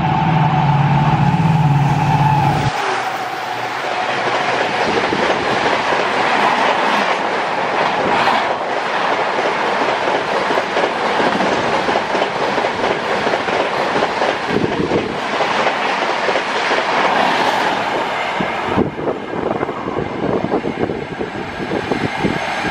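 EMD WDP-4B diesel locomotive and its passenger coaches passing at about 130 km/h. The locomotive's loud pitched sound stops sharply about three seconds in. A loud rush of coaches follows, with fast clickety-clack of wheels over rail joints, for about fifteen seconds, and it eases near the end as the last coach goes by.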